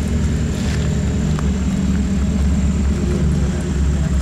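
A rock-crawling Jeep's engine running at low revs as it climbs over boulders, a steady low drone.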